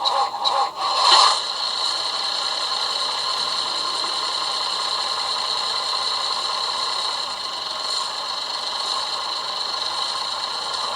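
Diesel railcar engine sound from a Hornby TXS sound decoder, played through the small speaker in a OO-gauge Dapol Class 121 model. It starts up with a quick run of clattering beats in the first second or so, then settles into a steady running note.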